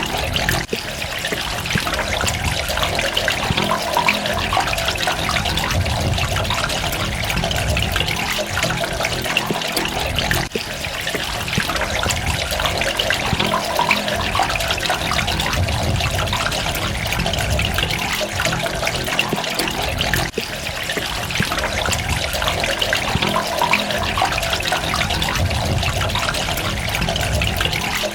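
Steady running, trickling water with a busy splashing texture. There are brief dips in level about every ten seconds.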